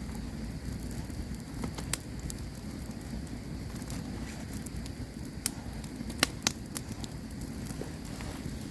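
Campfire crackling: scattered sharp pops and snaps, two of the loudest close together about six seconds in, over a steady low rush from the flames.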